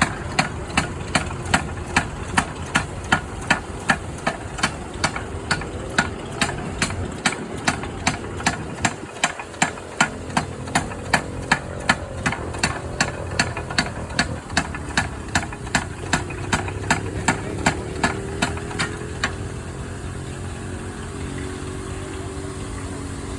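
An engine running with a sharp knock or bang about three times a second, over a low steady rumble. The knocks stop near the end, and the rumble carries on.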